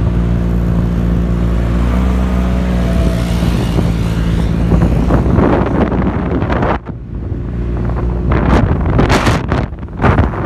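Motorcycle engine running steadily, with wind buffeting the microphone and growing rougher about halfway through.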